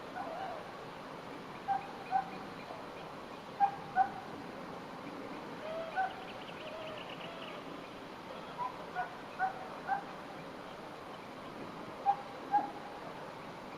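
A bird calling in short clear notes, mostly in pairs about half a second apart, repeated every two seconds or so, over faint outdoor background.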